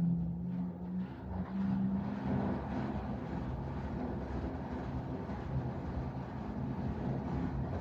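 LG direct-drive washing machine on its spin cycle, running with a steady hum and rumble. This is the extreme spin noise that marks a fault in the machine.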